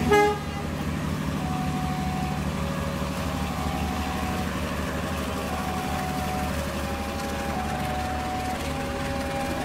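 Passenger coaches of a locomotive-hauled train rolling past on the rails, a steady low rumble. A short, loud pitched blast sounds right at the start.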